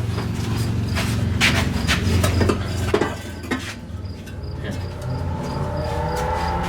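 Metal clinks and knocks as cut pieces of turbo intercooler tubing are handled and test-fitted, over a steady low hum. A pitched mechanical drone comes in about five seconds in.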